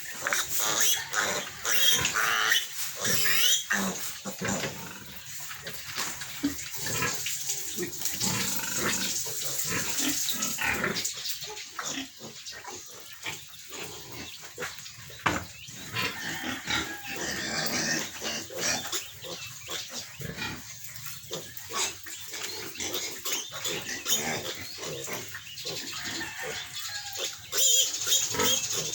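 Two-week-old piglets squealing in high-pitched distress calls, the cries of piglets held for castration. The squeals are loudest in the first few seconds and again near the end, easing off in between.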